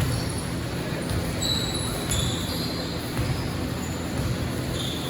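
Basketball game in a gym: sneakers squeak on the court again and again in short high-pitched chirps over the hall's steady echoing background noise.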